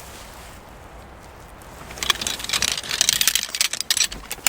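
Quick crinkling and rustling of food packaging being handled, starting about two seconds in, as a packed sandwich is unwrapped.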